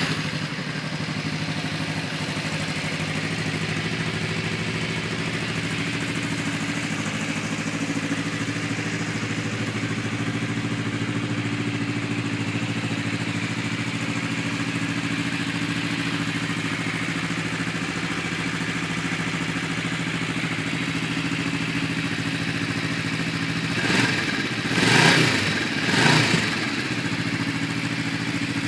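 Kawasaki Vulcan 500 (EN500) 498cc parallel-twin engine firing up and settling into a steady idle. Near the end the throttle is blipped three times in quick succession, each rev rising briefly before dropping back to idle.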